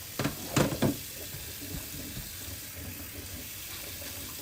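Kitchen tap running into the sink, a steady rush of water, with three sharp knocks in the first second.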